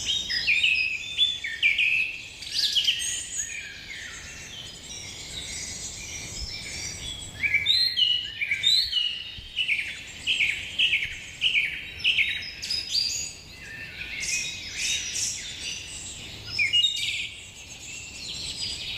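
Many small birds chirping and calling at once, a busy overlapping chorus of short high notes that thins out for a few seconds and then picks up again.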